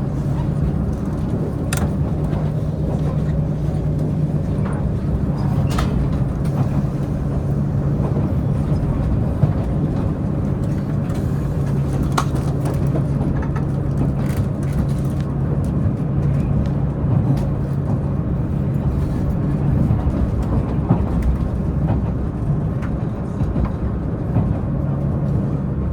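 Diesel engine of a Tze-Chiang diesel multiple unit running steadily, a low hum under the rumble of the wheels on the rails, with a few sharp clicks. The hum fades for a few seconds near the end, then returns.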